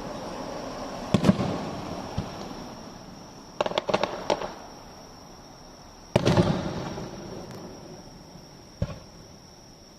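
Aerial fireworks bursting: separate booms with echoing tails, a quick run of crackling pops about four seconds in, and the loudest boom about six seconds in.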